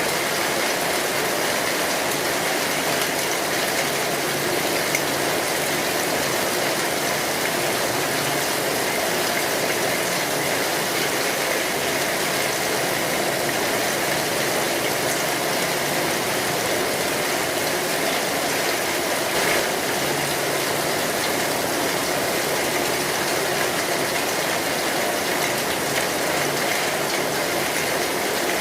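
Steady rain falling on a metal roof, with scattered small clicks and pops from a crackling wood fire; one pop stands out about two-thirds of the way through.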